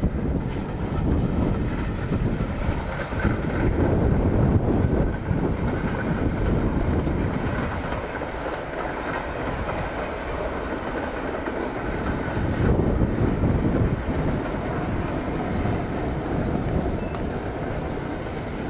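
A steam-hauled train running on the rails: a loud, steady rush of noise that swells slightly a few seconds in and again past the middle.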